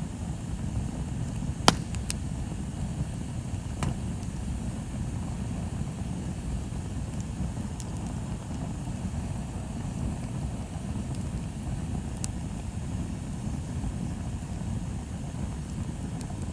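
Wood bonfire burning: a steady low rumble with a few sharp crackling pops, the loudest a little under two seconds in.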